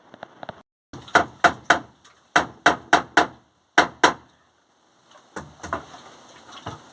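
Sharp knocks or blows struck in quick runs, three, then four, then two, about three a second, followed by fainter, scattered taps.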